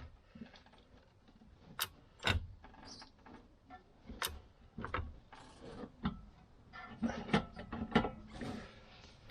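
Irregular metallic clicks and knocks, roughly one a second, as the rear suspension is jerked up bit by bit to line up the shock absorber's mounting hole with its bolt.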